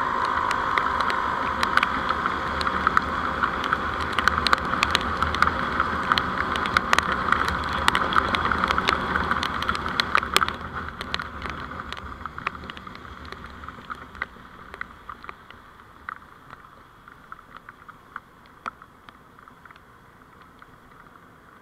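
Vehicle running on a road as picked up by a dashcam: a steady road and engine noise with many sharp ticks throughout. It grows much quieter about halfway through.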